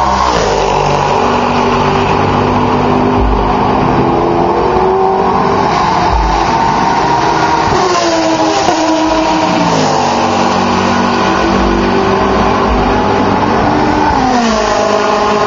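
Grand-Am sports prototype and GT race cars going by at full throttle on a long straight, engine notes continuous. Three times the pitch drops sharply as a car passes: at the very start, about halfway through and near the end.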